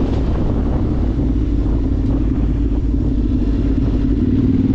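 Yamaha Ténéré 700 motorcycle's parallel-twin engine running steadily under way at an even pitch, over a low rumble.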